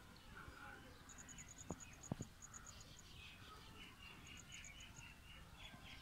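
Faint high chirping of small birds, in quick runs of short notes, with a couple of sharp clicks or knocks about two seconds in.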